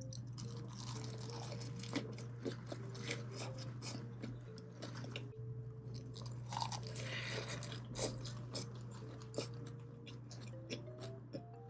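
A person chewing and biting food up close, with repeated crunchy, clicky bites.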